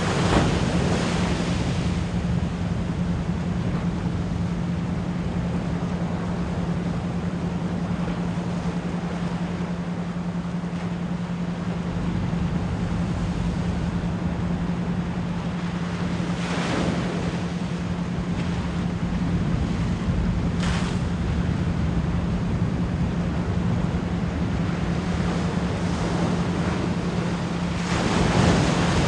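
Ocean waves washing and breaking in swells, with a steady 174 Hz pure tone under them throughout, pulsed as an isochronic beat.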